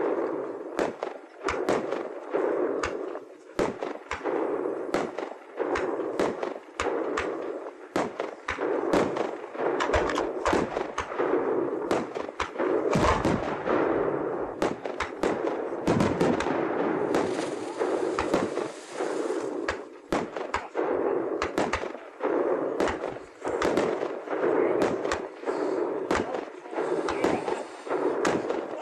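Fireworks going off: a dense, irregular run of sharp bangs and cracks, several a second, over a steady noisy background, with a short high hiss about two-thirds of the way through.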